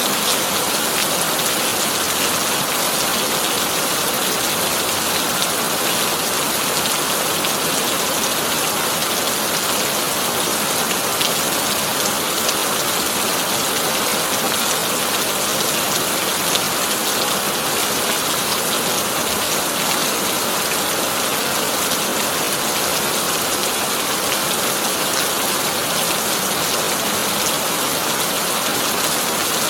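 Heavy rain on a tin (corrugated iron) roof, a steady dense hiss with scattered sharper drop hits and no thunder.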